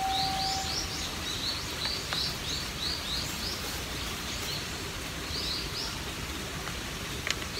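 Small birds chirping in quick runs of short, high notes, several runs one after another, over a steady outdoor background noise.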